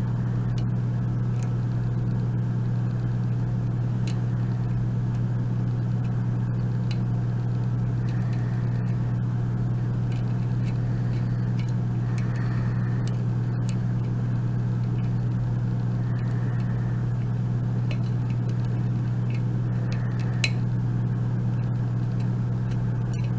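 Steady low hum, with scattered faint small clicks of a hook pick working the pin stack of an Abus euro cylinder.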